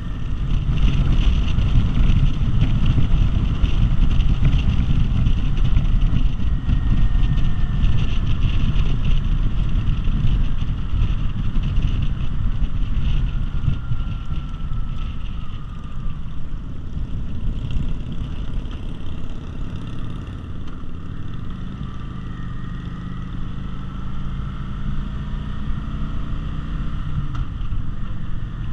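V-twin cruiser motorcycle running at road speed, its engine rumble mixed with wind rushing over the microphone. It is loudest through the first half and eases off a little after about halfway.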